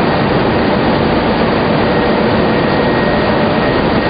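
Tobacco-lamina flash dryer running: a loud, steady rush of fans and moving air with machinery hum, and a faint steady high whine.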